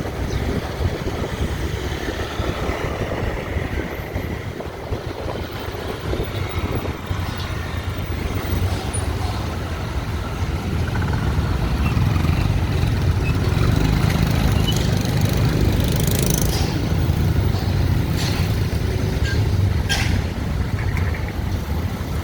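Busy city street traffic: motorbike and car engines running in a continuous low rumble that grows louder about halfway through, with a few short hisses near the end.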